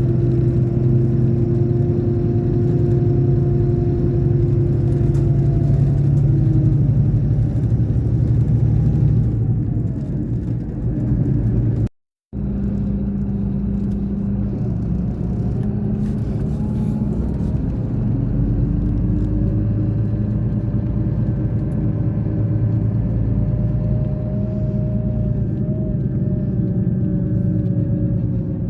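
Scania K420 coach's engine running under way, a steady low drone whose pitch slowly rises and falls with engine speed. The sound cuts out briefly about twelve seconds in, then resumes.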